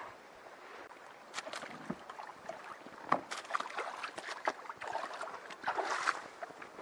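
Canoe paddle strokes in water: irregular splashes and drips with a few sharp knocks, loudest about three seconds in and again near the end.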